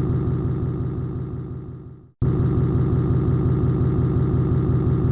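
Background soundtrack: a low, evenly pulsing electronic drone. It fades out to silence about two seconds in, then cuts back in abruptly at full level.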